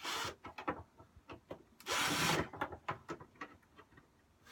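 Mower wheel and axle parts being worked loose by hand: a short scrape at the start, a longer, louder scrape about two seconds in, and scattered small clicks and taps of metal parts.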